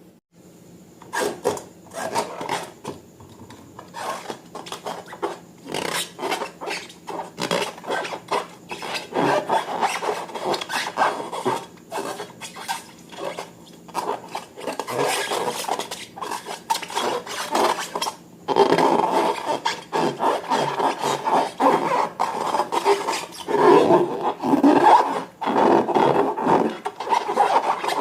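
Repeated, irregular rubbing and scraping strokes, starting about a second in and growing louder about two-thirds of the way through.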